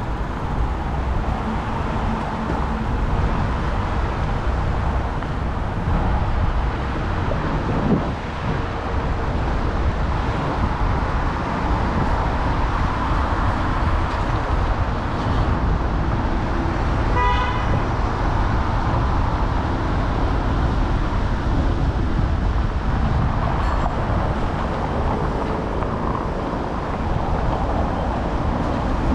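Street noise heard from a moving bicycle: a steady low rumble of wind on the microphone and passing city traffic. About two-thirds of the way through, a short pitched toot sounds once, like a horn or a bell.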